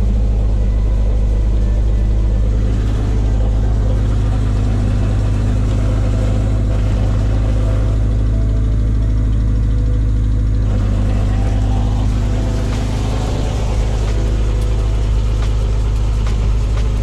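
Honda D16Y7 1.6-litre four-cylinder engine idling steadily and evenly. It is freshly swapped into the Civic and now running fine on the original key, with the immobilizer chip moved into its ECU.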